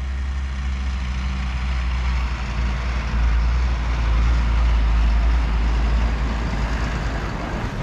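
Heavy truck's engine rumbling as the contractor's grain-grinding truck pulls up, growing louder about three seconds in and easing off near the end.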